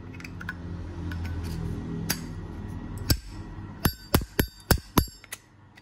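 Zippo windproof lighter, brushed chrome, its hinged lid snapped open and shut: sharp metallic clicks with a bright ring. There are two single clicks, then a quick run of about six at roughly three a second. A low steady hum underlies the first half.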